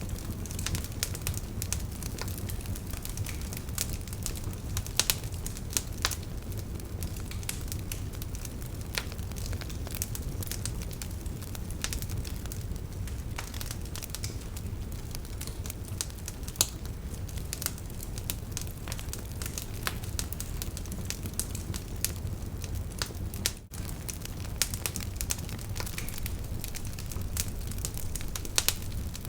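Campfire crackling, with frequent irregular pops and snaps of burning wood over a steady low rush of river water.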